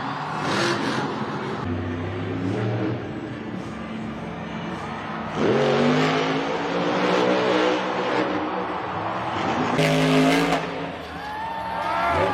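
Monster truck engine revving hard, its pitch climbing sharply about five seconds in and rising and falling with the throttle after that. About ten seconds in there is a loud, harsh burst of noise.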